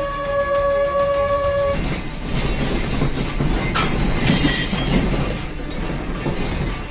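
A steady horn-like tone that cuts off about two seconds in, followed by a loud low rumbling noise with two short hissing crashes around the middle.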